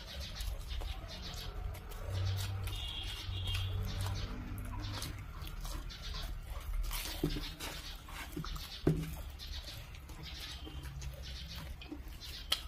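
Close-miked chewing and mouth noises of people eating fried momos dipped in green chutney: soft wet smacks and small crunchy clicks, over a low steady hum.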